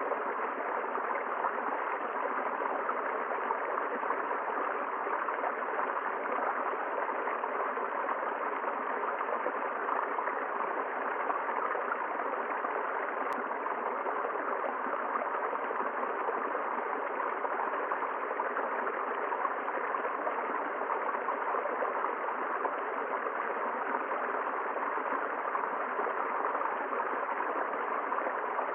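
River water flowing over rocks, a steady, unbroken rushing.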